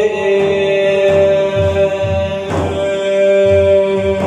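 Devotional singing of a manqaba in praise of the Prophet: a male singer holds one long note, over a steady low beat about twice a second with a sharper hit about halfway through.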